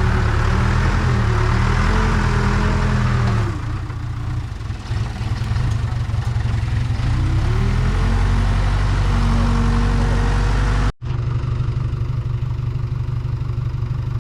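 Case 580 Super K backhoe loader's diesel engine running under working load, with a higher whine that rises and falls in pitch over its steady low drone. A brief dip in loudness comes a few seconds in, and near the end an abrupt cut leaves the engine running steadier and a little quieter.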